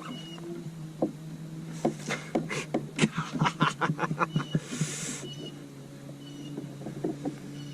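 Rod-and-reel fight with a large blue catfish from a kayak: a quick, irregular run of sharp clicks and ticks about two seconds in, then a short hiss, over a steady low hum.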